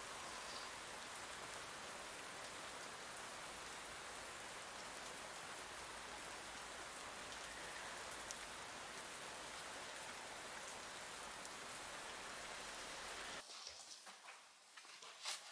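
Steady rain falling, an even hiss that cuts off suddenly about two seconds before the end; a few light clicks follow in a quiet room.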